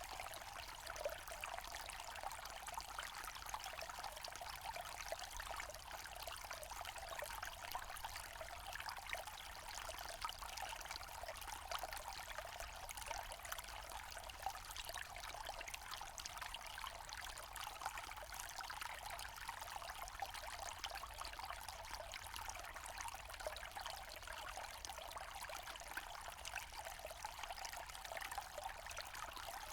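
Small forest stream trickling and splashing steadily over stones.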